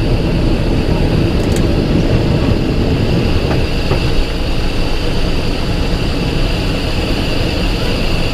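Cessna Citation XLS twin turbofan engines running steadily, heard inside the cockpit: a constant rumble with a steady high whine over it. There is a light click about a second and a half in.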